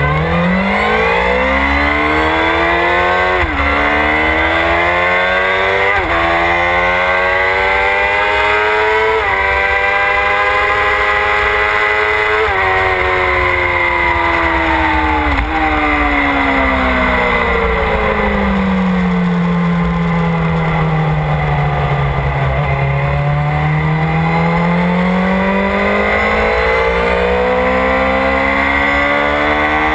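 Motorcycle engine on a track run, accelerating hard through the gears. The engine pitch climbs and drops sharply at each upshift, about five shifts in the first fifteen seconds. It then falls slowly as the bike slows and climbs again near the end, over heavy wind rumble on the microphone.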